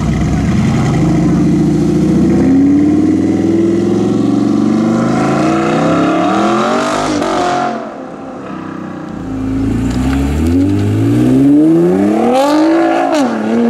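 Sports car engine accelerating hard, its revs climbing in one long pull that breaks off about eight seconds in, then a second rising rev run with a quick dip near the end.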